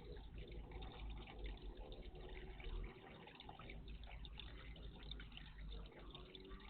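Water in a garden birdbath, faintly splashing and trickling, with a steady low rumble underneath.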